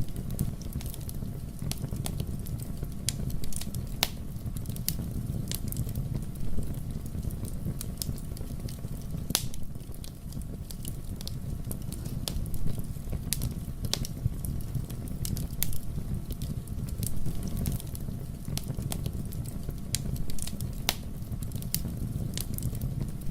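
Wood fire burning in a fireplace, with a steady low rumble of the flames and irregular sharp crackles and pops from the logs.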